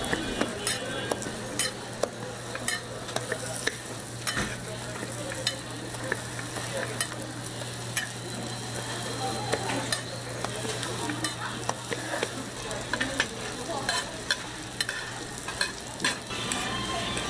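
Hotteok frying in oil on a flat griddle: a continuous sizzle with irregular sharp crackles and pops throughout, over a steady low hum.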